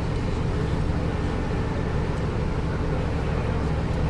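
Steady engine drone with a constant low hum, unchanging in level.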